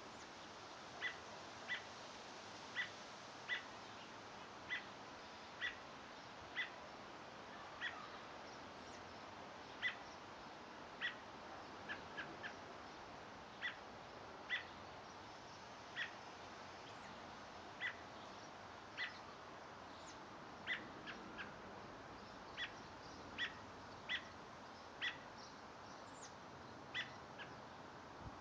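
A songbird repeating a single short chirp, about once a second, over a faint steady hiss.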